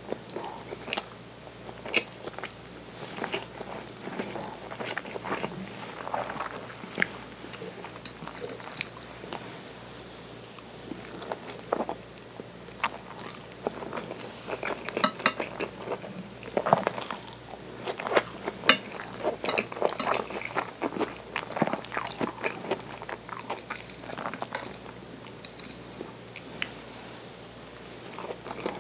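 Close-miked chewing of soft okonomiyaki and a nori-wrapped rice ball, with wet mouth clicks and small crunches coming in irregular clusters. The clicks are busiest around the middle.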